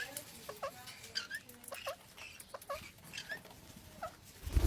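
Parrot giving short squeaky chirps, about eight of them at irregular spacing, with a loud dull thump near the end.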